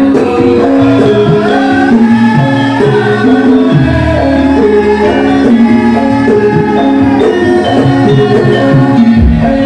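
Live music for a Javanese lengger dance: a gamelan ensemble playing, with a singer's voice gliding over it.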